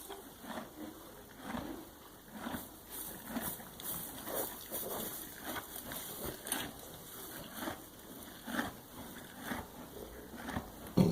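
A dog making an odd noise over and over: short, irregular noisy sounds, about one or two a second, with a louder thump near the end.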